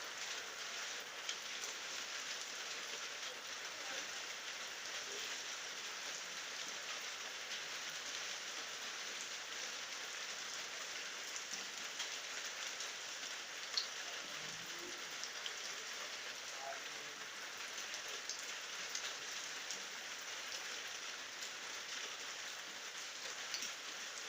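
Steady rain falling, with scattered individual drops ticking through it and one sharper tap about fourteen seconds in.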